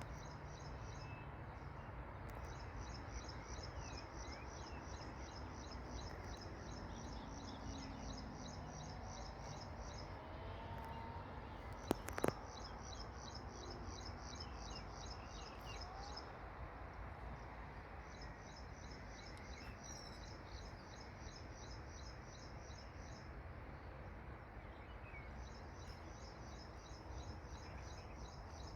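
Outdoor nature ambience: a high, rapidly pulsing trill comes in long bouts of several seconds with short gaps, over a steady low background rumble, with a few faint bird chirps. Two sharp clicks sound about twelve seconds in.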